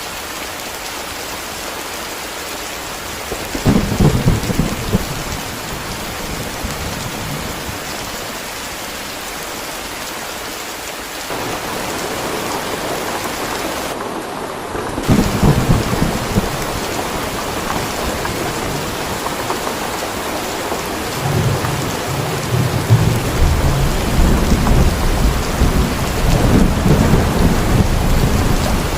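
Steady heavy rain with thunder. A rumble comes about three seconds in and another about halfway through, and from about two-thirds of the way through a long rolling peal of thunder builds and keeps going.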